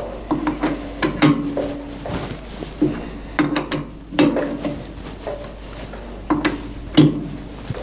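Metal objects being handled and set down: a series of sharp clinks and knocks, some ringing briefly.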